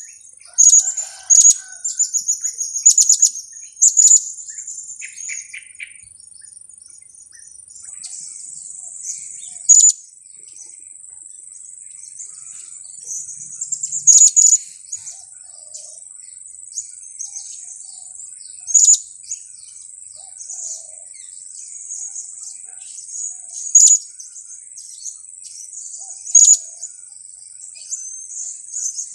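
Blue-crowned hanging parrot giving sharp, very high-pitched 'kiak' calls. There is a quick run of calls in the first few seconds, then single calls every few seconds. A steady high-pitched buzz runs underneath.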